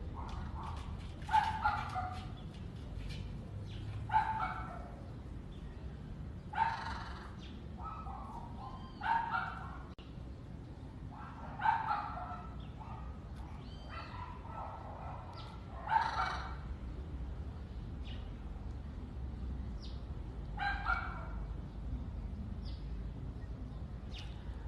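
Repeated short, sharp animal calls, one every two to five seconds.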